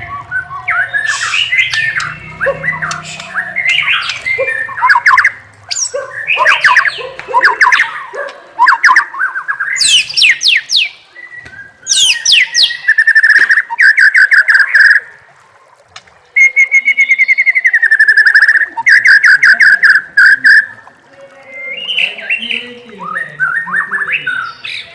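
White-rumped shama (murai batu) singing a varied run of whistled phrases and glides, broken in the middle by two long stretches of fast repeated notes.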